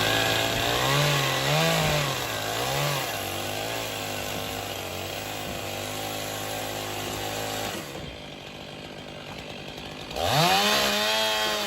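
Two-stroke chainsaw engine being throttled, its pitch swinging up and down for several seconds, falling back to a quieter idle about eight seconds in, then revved hard again near the end before easing off.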